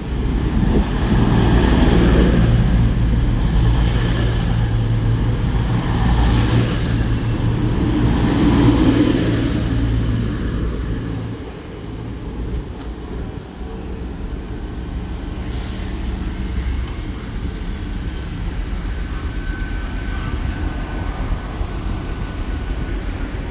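CrossCountry diesel train running close by, its engines loud and steady for about ten seconds, then dropping to a quieter steady hum.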